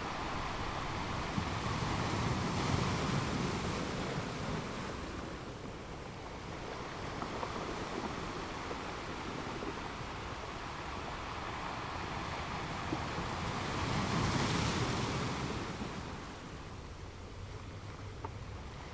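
Ocean waves breaking and washing ashore in an even hiss, swelling with a wave about two seconds in and again about fourteen seconds in, then ebbing.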